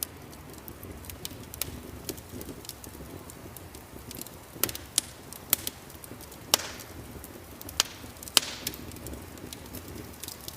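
Wood fire in a fireplace crackling, with irregular sharp pops scattered through it and a few louder snaps in the middle, over a low steady rumble.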